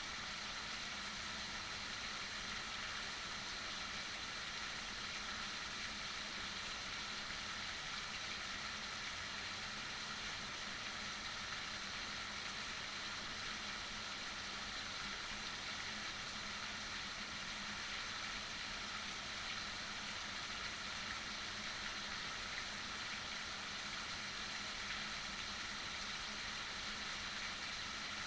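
Heavy rain falling, a steady, even hiss with no let-up, over a faint steady low hum.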